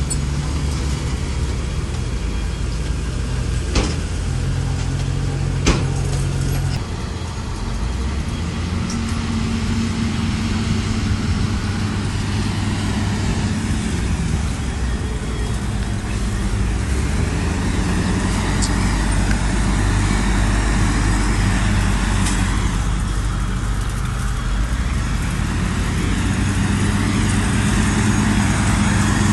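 Heavy diesel earthmoving machinery running steadily, its engine note shifting a few times as the load changes, with two sharp knocks in the first six seconds.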